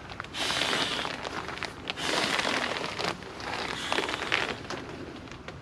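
Tarp rustling and crinkling as it is handled, in repeated bursts of about a second each.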